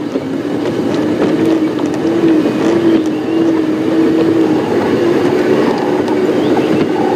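Safari game-drive vehicle's engine running with a steady, even drone.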